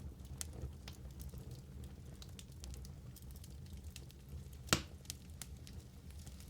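Wood fire burning in a fireplace, crackling with scattered small pops over a low steady rumble; one loud, sharp pop stands out about three-quarters of the way through.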